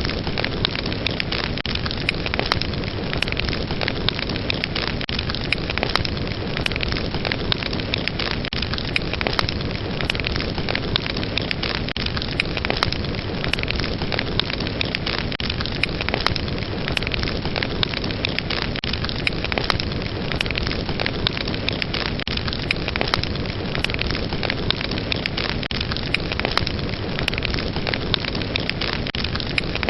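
Wood fire burning steadily, with a continuous rushing hiss and many sharp pops and crackles scattered throughout.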